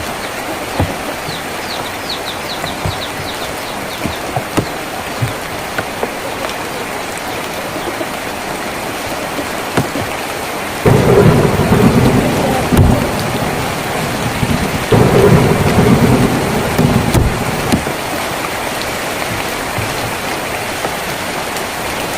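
Rain on a tin roof, a steady patter with scattered individual drop knocks. Thunder rumbles in twice around the middle, loud and low, each lasting about two seconds.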